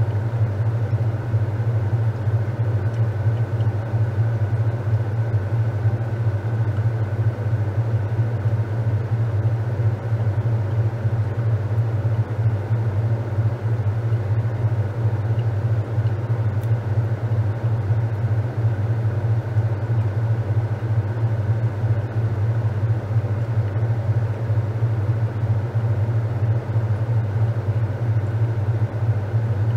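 Top-loading washing machine running with a steady, unbroken low hum and churning noise.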